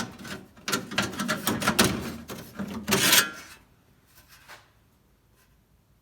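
Sheet-metal patch panel clattering and knocking against the steel door shell as it is worked into place: a dense run of metallic clicks and knocks for about three and a half seconds, then a couple of faint taps.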